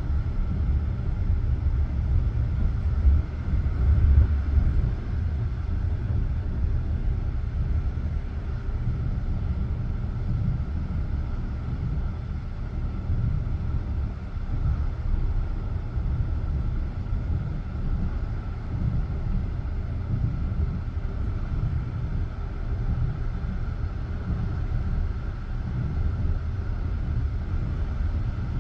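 Passenger train carriage running along the line, heard from inside: a steady low rumble of wheels on rails, with a louder spell about three to four seconds in.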